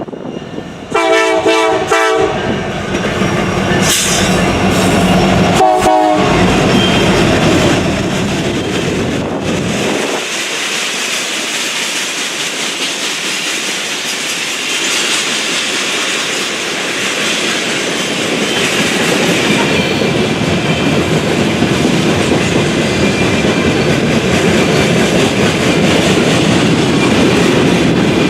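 Freight train locomotive's horn sounding a blast about a second in and a shorter one near six seconds, then the train rolling past with steady clatter of wheels and cars.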